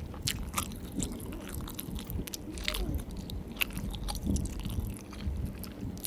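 Close-up chewing and biting of fast food, with irregular short clicks from the mouth.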